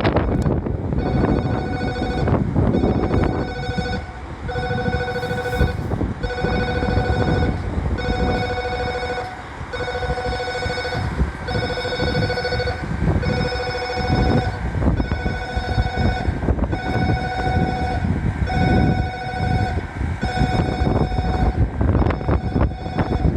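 Electronic railway warning bell ringing in a steady on-off pattern, about one ring a second, stopping shortly before the end. Strong wind buffets the microphone underneath.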